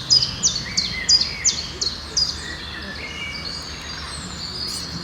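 Birds singing: a run of quick, high notes, each sliding downward, about three a second for the first two seconds or so, then thinner, steadier high notes.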